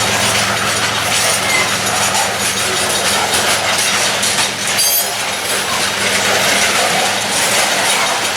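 Freight train passing, its cars rolling by on the rails with a steady low engine hum that fades out about halfway through. A brief high-pitched squeal comes about five seconds in.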